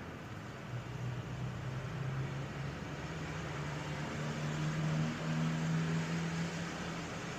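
Light rain hissing over city street ambience, with the low hum of a vehicle engine that swells about halfway through and eases off near the end.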